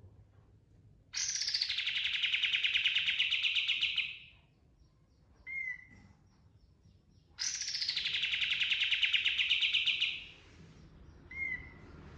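Kapas tembak bird singing its rolling trill ('ngerol') twice, each a rapid chattering run of about three seconds that opens with a quick falling note. A short, sharp single note follows each trill.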